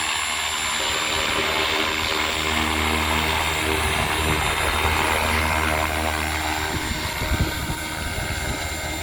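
Hirobo Lepton EX radio-controlled helicopter in flight: a steady rotor buzz with an even motor whine, whose low rotor tone drops away about seven seconds in.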